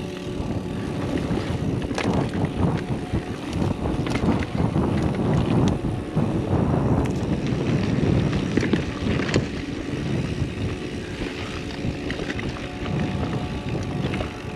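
29er mountain bike riding downhill on a dirt singletrack: tyres rumbling over the trail and the bike rattling, with a few sharp clacks, and wind on the microphone.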